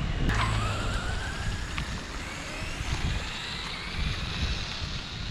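Arrma Vendetta RC car's brushless electric motor whining as the car accelerates on a speed run, its pitch climbing steadily over a few seconds, with wind noise on the microphone.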